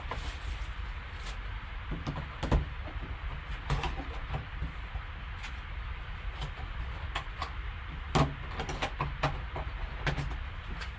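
Hands opening and handling a trading card box and pack: scattered sharp clicks and taps of cardboard and plastic, over a steady low hum.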